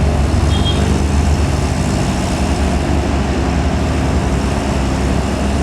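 Old Toyota DA100 truck's engine running steadily, a deep even engine sound.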